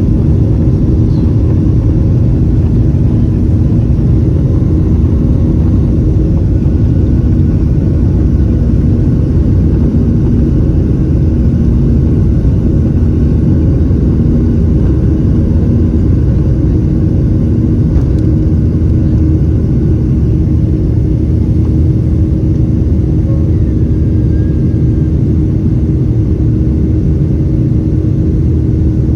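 Boeing 737-800 with its CFM56-7B jet engines running at high power: a loud, steady rumble with a few faint steady hum tones over it.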